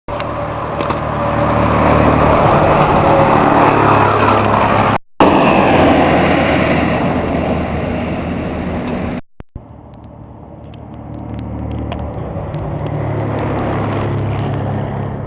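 Scania CMA Flecha Azul diesel buses passing by, their engines running loud and steady. The sound cuts off abruptly about five seconds in and again about nine seconds in; after the second cut another bus is heard approaching, its engine growing louder.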